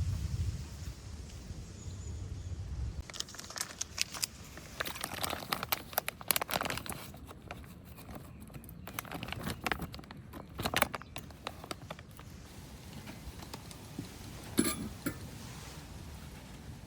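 Crinkling, crunching handling noise in quick irregular bursts for about nine seconds, then a few sharp clicks near the end.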